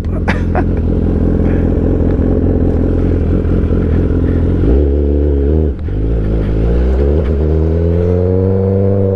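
A 2022 Kawasaki ZX10R's inline-four engine, breathing through an aftermarket SC Project S1 exhaust. It runs steadily, drops off briefly about six seconds in, then climbs steadily in pitch as the bike accelerates.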